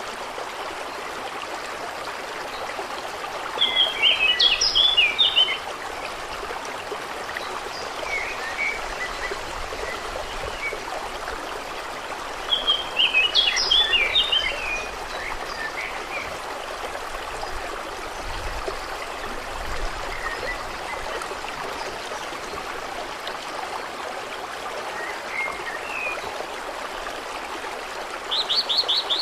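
Steady rush of lake water with birds singing. Two short bursts of chattering birdsong come about four and thirteen seconds in, with a few faint chirps between.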